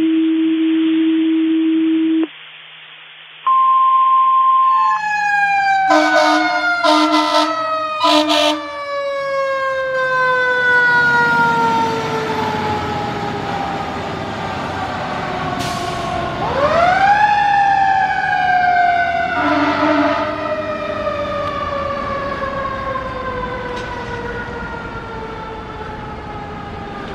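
Fire dispatch alert tones come over a radio scanner: a long steady tone, then a brief higher one. Then a fire truck's mechanical siren winds down slowly, with several air horn blasts. It revs back up about two-thirds of the way through and coasts down again, with another horn blast.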